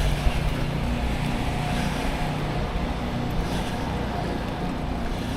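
Wind and road noise from riding a bicycle, picked up by a neck-mounted action camera's microphone: a steady low rumble.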